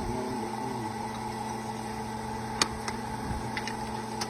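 Drilling rig machinery running with a steady droning hum, with a single sharp metallic clank about two and a half seconds in and a few lighter ticks after it.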